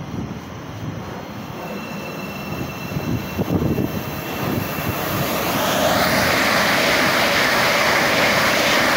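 Class 387 electric multiple unit passing at speed: a rush of wheel and air noise that builds over the first few seconds and is loud and steady from about halfway through.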